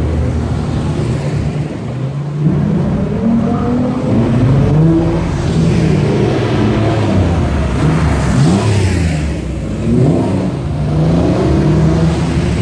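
Car engines running and revving, their pitch rising and falling several times, with overlapping engine notes about two thirds of the way through.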